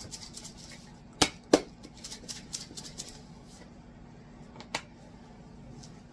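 A grated Parmesan cheese container being shaken and tapped over a pan, giving two sharp knocks a little over a second in, a run of quick light ticks, and one more knock near the end.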